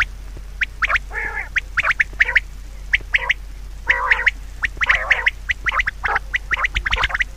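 Bird calls: a rapid run of short, sharp calls with a few longer calls among them, over a steady low hum.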